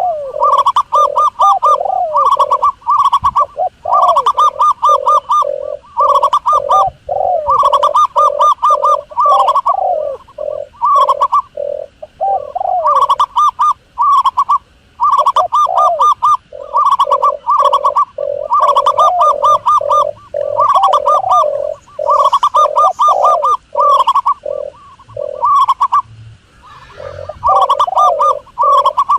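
Doves cooing in rapid runs of trilled coo notes that repeat almost without pause. The calls break off briefly about halfway through and again near the end.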